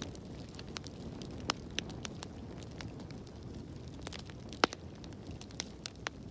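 Fire crackling in a fireplace: a steady low rumble of flames under scattered sharp crackles and pops, the loudest pops about a second and a half in and just before five seconds in.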